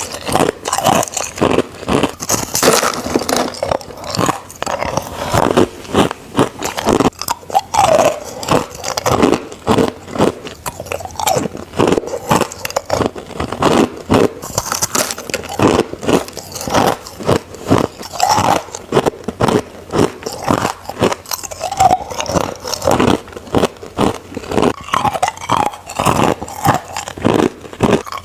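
Crushed ice being bitten and chewed close to the microphone: a continuous run of loud, rapid crunches, several a second.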